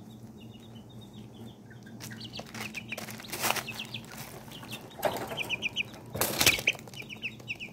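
Small chicks peeping in quick runs of short, high cheeps, with two brief rustling bursts, about three and a half and six and a half seconds in, the loudest sounds.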